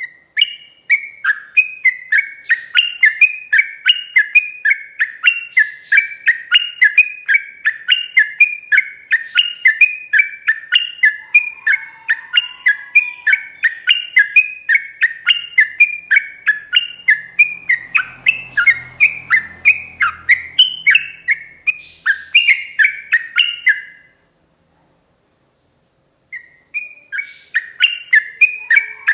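Yellow-vented bulbul (trucuk) singing a long, fast, unbroken run of bubbly falling notes, about three a second. It breaks off for about two seconds near the end, then starts again.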